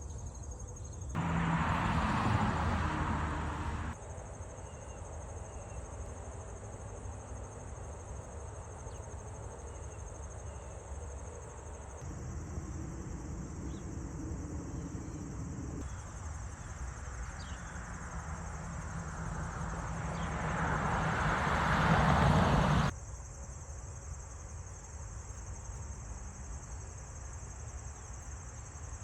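Crickets chirping in a steady high trill, with two stretches of louder rushing noise: one starting about a second in for a few seconds, and a longer one past the middle that builds and then cuts off suddenly.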